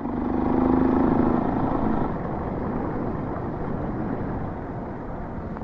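Motorcycle engine running, louder for about the first two seconds and then easing off to a quieter, steady running sound.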